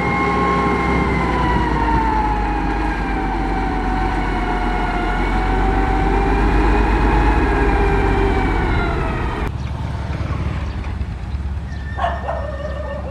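Heavy construction machine's diesel engine running, with a high whine that slowly falls in pitch. About nine and a half seconds in the sound changes abruptly to a quieter engine, and short dog barks come in near the end.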